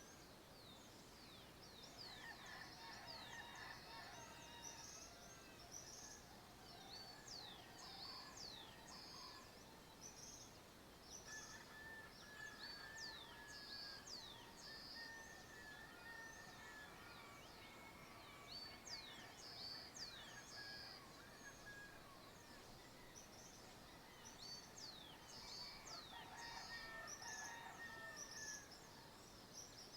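Faint dawn chorus of several birds: many quick, high chirps that sweep downward, with lower whistled notes and short warbling phrases now and then.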